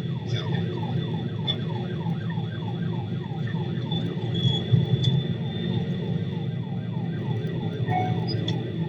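Police siren in rapid yelp, sweeping about three times a second over a steady low hum.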